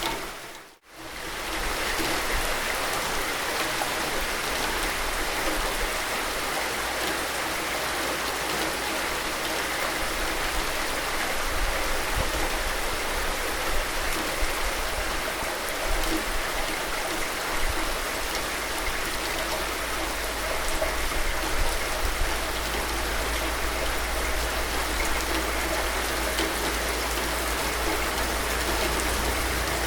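Steady heavy rainfall, an even hiss of many drops, with a brief drop-out that fades down and back just under a second in.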